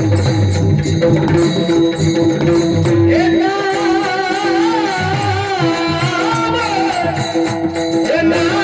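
Marathi Warkari bhajan in raga Bhairavi: a steady held drone with rhythmic drumming and small cymbals, and about three seconds in a high male voice enters singing long, ornamented, wavering notes, coming back in near the end.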